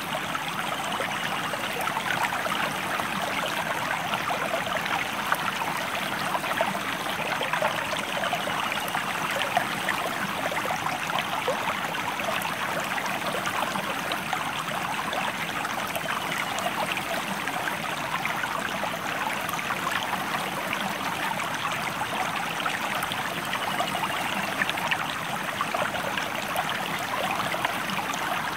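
River or stream water flowing steadily, a constant rushing babble with fine splashing detail that stays even throughout.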